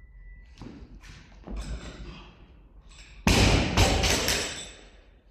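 A gym timer's long start beep cuts off in the first half-second. Soft thuds follow, and then about three seconds in comes a loud heavy thud with rattling knocks that ring on for about a second, typical of gym equipment such as a loaded barbell hitting the floor.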